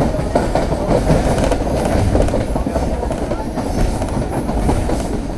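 Pakistan Railway passenger train running along the track, heard from aboard a coach: a steady rumble of wheels on rails with a few faint clicks.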